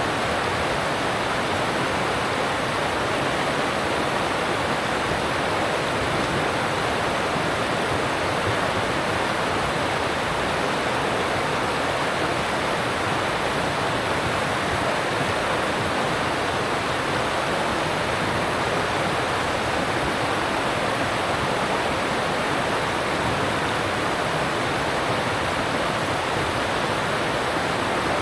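Alpine stream rushing over rocks: a steady, even rush of water with no breaks or changes.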